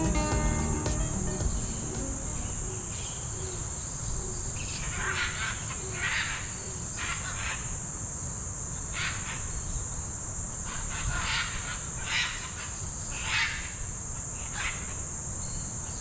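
A steady high drone of insects (cicadas or crickets), with scarlet macaws giving a string of harsh squawks, one every second or two from about five seconds in.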